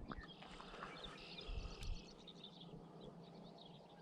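Birds chirping faintly and repeatedly, with low rumbling in the first two seconds and a single sharp click about two seconds in.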